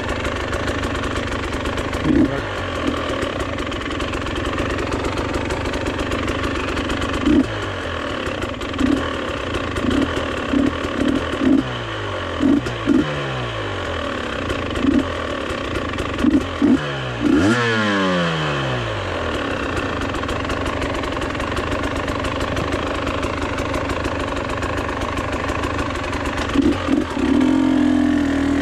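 Vehicle engine running steadily under way, with short loud blips and several sweeps falling in pitch between about twelve and nineteen seconds in.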